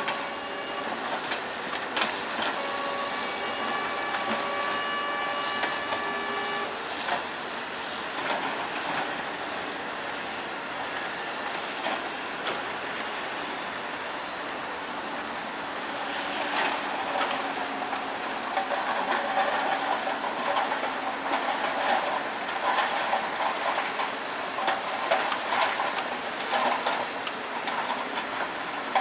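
Heavy earthmoving machinery working: continuous metallic clanking and rattling of the kind made by crawler tracks, growing busier in the second half. A steady whine holds one pitch for the first six seconds or so.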